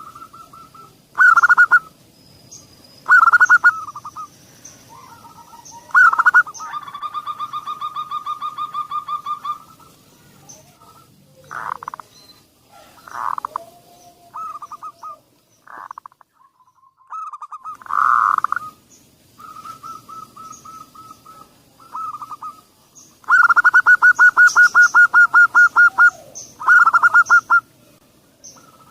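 Zebra doves (perkutut) cooing in their rapid trilled phrases, one after another with short pauses; some phrases run on as long, fast-pulsed rolling trills. Fainter high chirps sound in the background.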